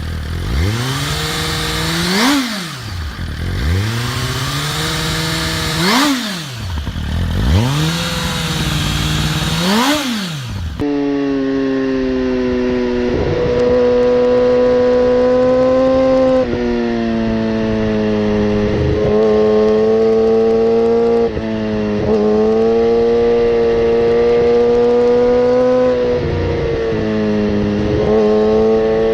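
Superbike engine revved hard three times, each rev climbing and falling back, then after a cut a motorcycle engine held at a steady high note with brief dips in pitch every few seconds.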